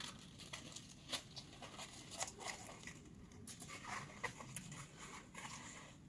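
Faint, irregular crunching steps in snow.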